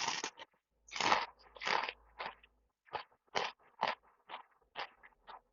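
A person chewing crunchy food close to the microphone: a run of short crunches at about two a second, louder at first and then fainter.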